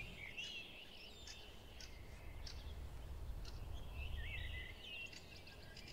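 Small birds singing: short warbling phrases and chirps, one cluster near the start and another about four seconds in, over a faint low rumble.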